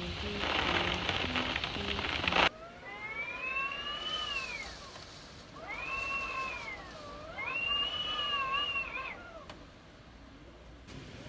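A rushing noise with music under it, cut off abruptly about two and a half seconds in. Then a domestic cat meows three times, in long drawn-out meows that rise and fall in pitch.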